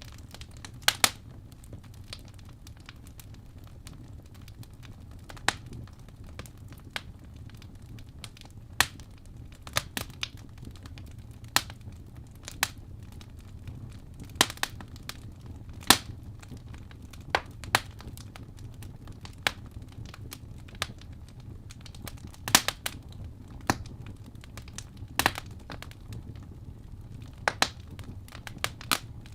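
Wood fire burning in a fireplace: logs crackling and popping in sharp, irregular snaps, sometimes two or three close together, over a steady low rumble of the flames.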